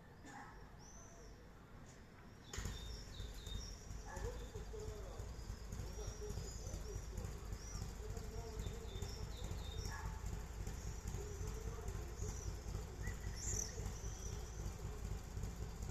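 Small birds chirping and singing in short, high calls throughout. About two and a half seconds in, a steady low rumble starts abruptly beneath them.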